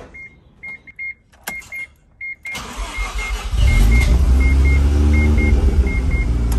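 Mazda RX-7 FD's twin-turbo 13B rotary engine cranked and started about two and a half seconds in, catching within a second and then running steadily. Before the start there is a sharp click, and a chime beeps in short pairs throughout.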